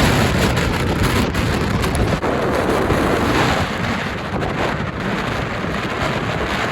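Strong gale-force wind buffeting the microphone: a dense, steady rush of noise, heaviest in the low end, with no breaks.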